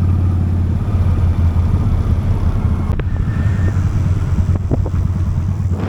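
Honda Steed motorcycle's V-twin engine running steadily while riding, a loud low drone that shifts slightly about a second in. A single sharp click is heard about halfway through.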